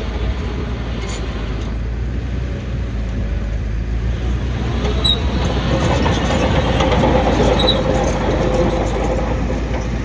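Heavy diesel engine of earthmoving machinery running steadily, growing louder around the middle and then easing slightly.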